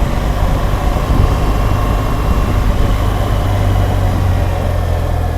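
BMW R1200GSA's boxer-twin engine running steadily as the motorcycle rides along, a continuous low hum.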